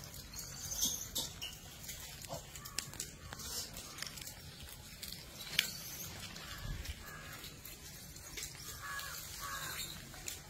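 Quiet outdoor ambience with scattered light clicks and rustles, and now and then a short harsh bird call, crow-like caws, a few of them close together near the end.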